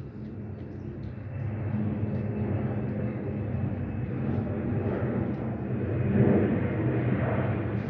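Low engine rumble with a steady hum, growing gradually louder.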